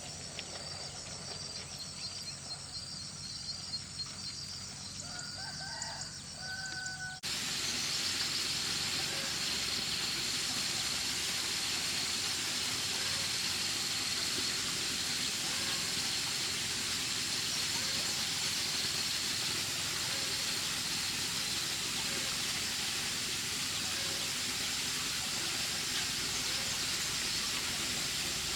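Crickets chirping steadily, with a bird calling briefly. About seven seconds in the sound cuts abruptly to a louder, steady hiss with the chirping still faintly under it.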